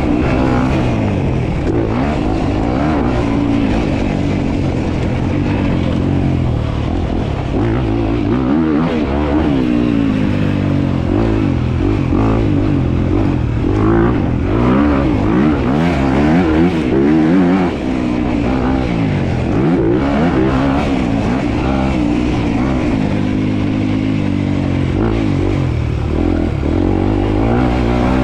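Dirt bike engine being ridden, its pitch rising and falling over and over as the throttle is worked and it shifts gears.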